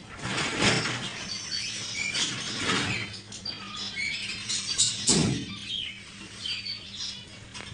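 Many small caged pet birds chirping and whistling over one another, short high calls coming thick and irregular, with a louder sharp burst about five seconds in.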